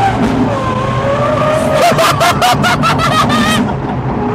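Lamborghini Aventador SVJ's V12 engine, fitted with a Gintani exhaust, running as the car is driven, heard from inside the cabin. About two seconds in, men break into loud laughter, a quick run of ha-ha-ha lasting under two seconds.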